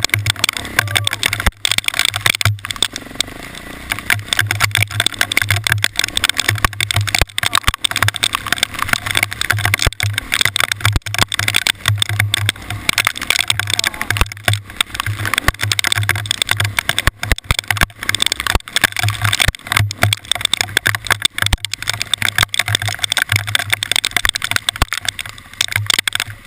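A vehicle running, with a pulsing low rumble under a steady rush of noise and many irregular sharp knocks and rattles.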